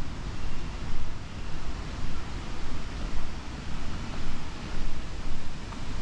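Wind buffeting the microphone: a low rumble that swells and fades irregularly every half second or so, over a faint background hiss.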